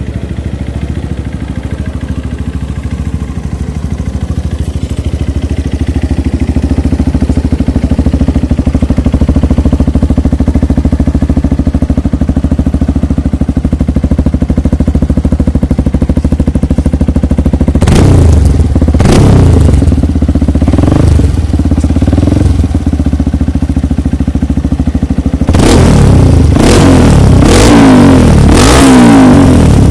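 Honda CRF150L's single-cylinder four-stroke engine idling steadily through an aftermarket-style exhaust test, then blipped several times, each rev rising and falling back to idle, and near the end revved in a quick series of blips.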